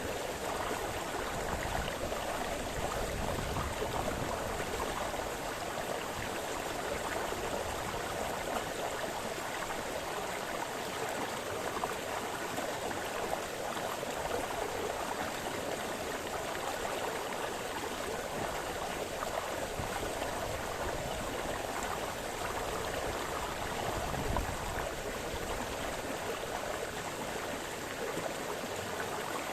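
Small brook splashing and burbling over stones, a steady flow of water.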